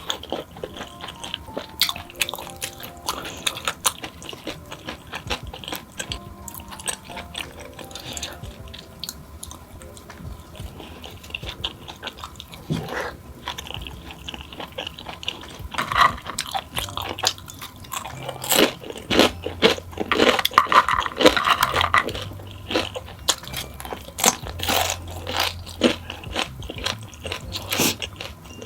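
Close-miked biting and chewing of crunchy fried snacks, with many sharp crunches that come thicker in the second half, over quiet background music.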